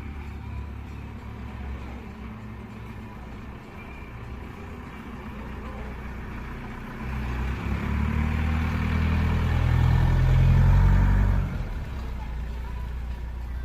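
Motor vehicle engine with a steady low rumble. About seven seconds in it grows louder, is loudest around eleven seconds, then drops back quickly.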